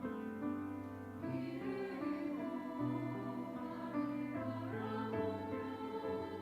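Church choir singing a sacred anthem, holding sustained chords that change about every second.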